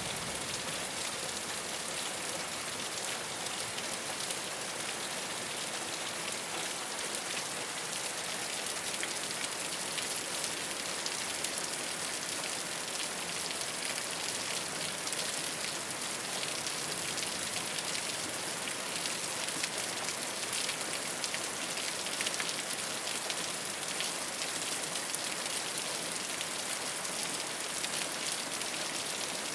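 Steady rain falling on a rooftop, a dense even patter of drops with many small individual ticks.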